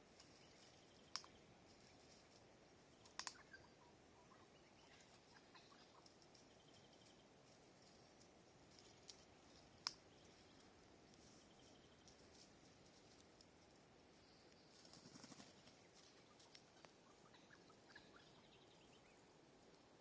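Faint, quiet background with scattered short, high bird chirps and a few sharp clicks, three of them standing out about a second, three seconds and ten seconds in.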